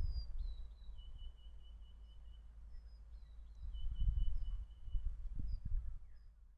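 Wind buffeting the microphone in low gusts, loudest about four seconds in, while a small songbird sings twice: a short falling note, then a quick run of repeated notes on one pitch. Other birds chirp faintly in between, and the sound fades out at the end.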